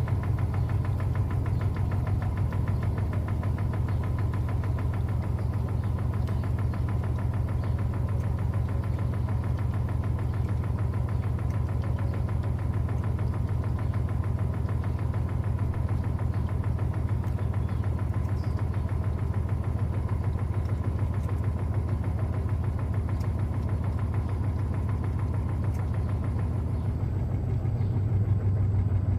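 Electrolux LTA15 top-loading washing machine running mid-cycle, its motor giving a steady low hum.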